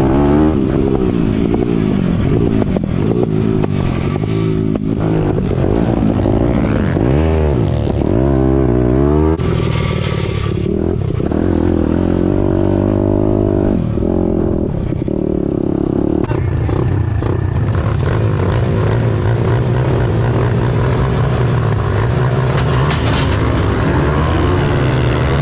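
Pit bike engine revving hard and easing off again and again, its pitch rising and falling as it is ridden; the sound changes about sixteen seconds in.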